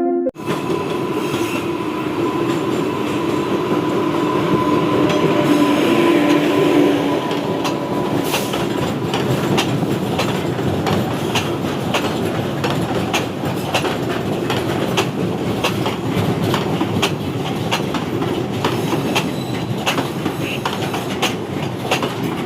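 Indian Railways freight train rolling past, with a steady rumble of wagons and wheels. A held whine fades out by about eight seconds in, and after that the wheels clatter over rail joints in quick irregular clicks.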